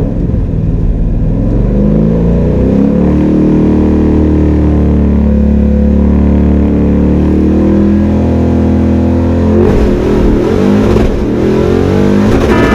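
Fox-body Mustang's 5.0 V8, on open longtube headers, running hard under acceleration on a drag strip pass. The engine pitch climbs over the first few seconds, holds fairly steady, then turns ragged and changes about ten seconds in.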